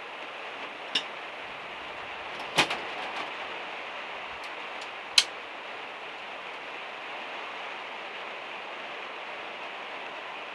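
Steady rain falling on a van's metal roof, with three sharp taps or knocks over it: one about a second in, the loudest a little over two and a half seconds in with a couple of small taps after it, and one about five seconds in.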